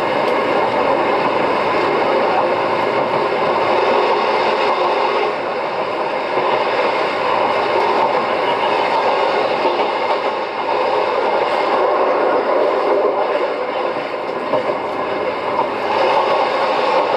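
Electric local train of the Wakayama Electric Railway Kishigawa Line running along the track, heard from on board: a steady, unbroken running noise of wheels and motors that dips slightly a few times.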